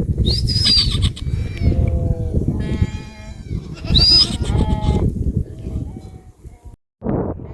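Livestock calling several times over a loud, steady low rumble.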